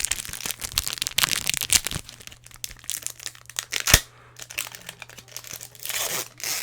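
Foil Pokémon booster pack wrapper crinkling, with cards being handled and close clicky rustling. One sharp tap or click about four seconds in.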